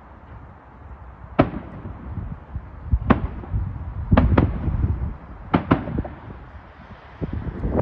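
Fireworks going off: about seven sharp bangs at irregular intervals, some in quick pairs, over a steady low rumble.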